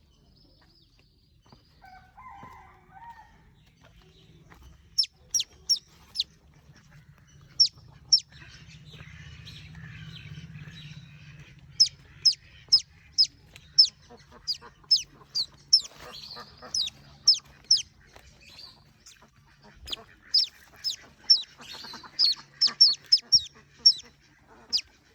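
Baby birds peeping: short, sharp, high-pitched peeps that drop in pitch, some single and some in quick runs of several, growing more frequent in the second half. A faint steady low hum runs underneath.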